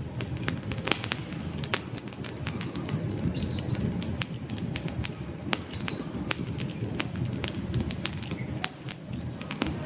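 Wood fire burning: irregular sharp crackles and pops from the logs, several a second, over a steady low rush of flame.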